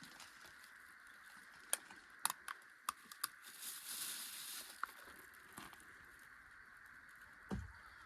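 Scattered sharp clicks and taps, a brief rustle about four seconds in, and a low thump near the end, over a faint steady high hum.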